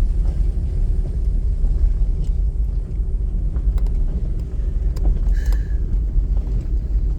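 A car driving along a road: steady engine and road rumble.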